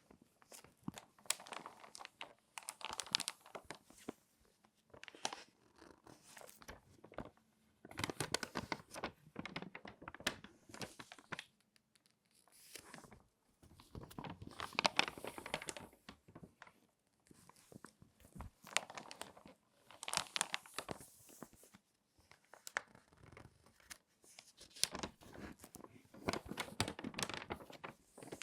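Crinkly magazine pages being folded and handled, crackling and crinkling in bursts of a few seconds with short pauses between.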